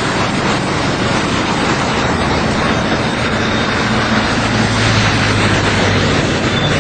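Fast-moving flash floodwater rushing with a loud, steady noise. A low, steady hum, like a motor, comes in about four seconds in.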